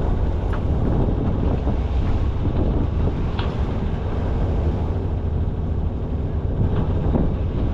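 Sailing yacht's inboard engine running steadily under way, with wind noise on the microphone.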